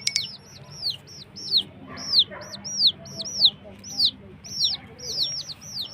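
Baby chicks peeping: a steady string of high calls that slide downward, about two or three a second, some overlapping.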